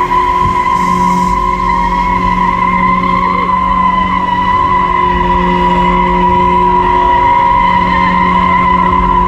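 A car doing a burnout: the tyres squealing in one steady, high-pitched note while the engine is held at constant high revs.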